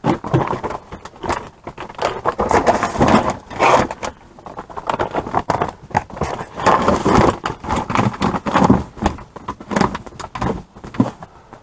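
Irregular rustling, knocking and clattering of small packaged items being handled and set down in a box, in uneven bursts with many short clicks.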